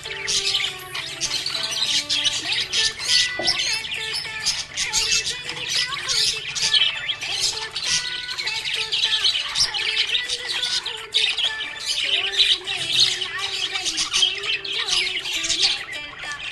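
A flock of budgerigars chirping and squawking continuously in rapid, overlapping calls. Soft music with held notes plays underneath.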